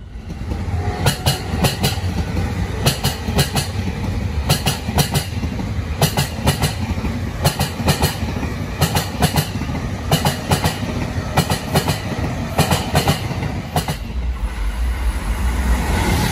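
Electric commuter trains running past a station platform: steel wheels clatter over rail joints in regular pairs of clicks over a low rumble. Near the end the clatter gives way to the steadier low rumble of another train passing.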